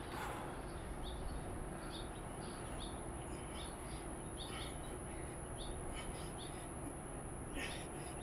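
Birds chirping in short, scattered calls over a steady high-pitched whine and faint background hum.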